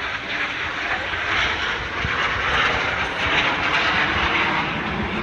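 An airplane in flight, its engine a steady rushing drone that swells slightly in the middle.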